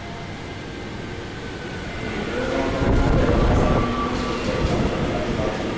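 Electric commuter train running into the station and past close by. Its rumble swells to a peak about three seconds in, then eases, with a faint steady whine over it.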